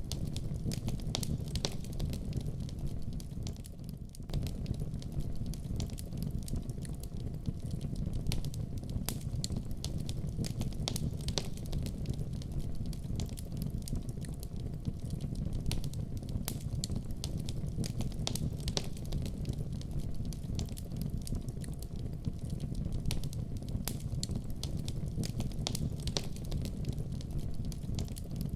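Wood fire crackling in a fireplace: frequent sharp pops and snaps over a steady low rumble of the burning flames.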